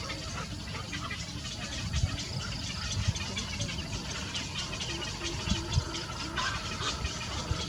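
Small birds chirping: many short, high peeps over a low rumble, with a few soft thumps.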